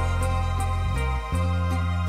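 Background music: a soft, slow instrumental track with sustained bass notes that change about a second in, and light regular percussion ticks.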